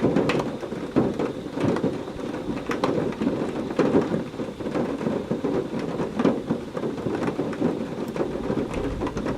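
Heavy rain pouring steadily, with dense spattering drops, under a thunderstorm. A low rumble of thunder builds near the end.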